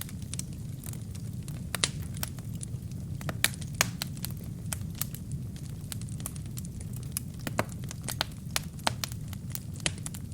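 Wood fire burning in a fireplace: a steady low rumble of flame with irregular sharp crackles and pops from the burning wood, a few of them much louder than the rest.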